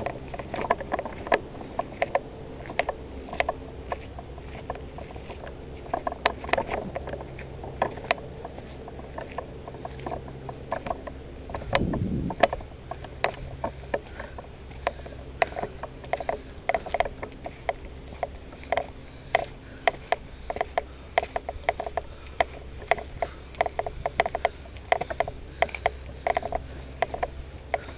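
Footsteps of a hiker on a rough forest trail: short irregular crunches, about two a second, over a low steady hum. A brief low rumble about twelve seconds in.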